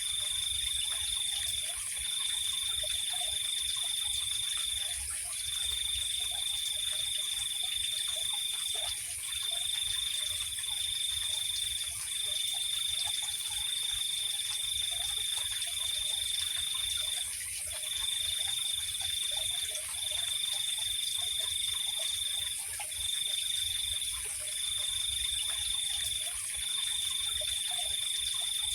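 Night-time chorus of insects and frogs. A cricket's continuous high trill breaks off briefly every few seconds, over a higher, steady insect drone, with faint short frog calls underneath.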